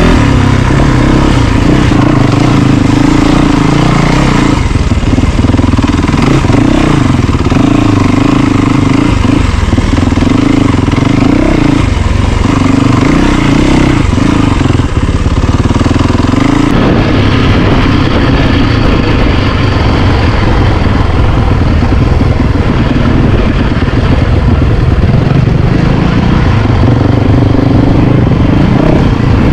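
Yamaha YZ450FX single-cylinder four-stroke dirt bike engine running under riding load, its pitch and level shifting every few seconds as the throttle is opened and closed.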